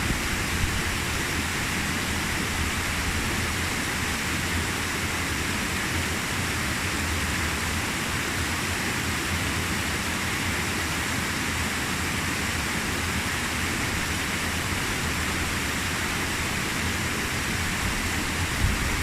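Waterfall rushing: water tumbling over rocks, a steady, even roar of falling water.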